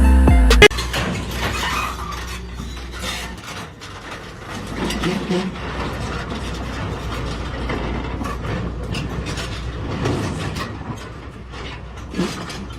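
Background music that cuts off under a second in, followed by a rumbling vehicle noise with scattered clicks and rattles.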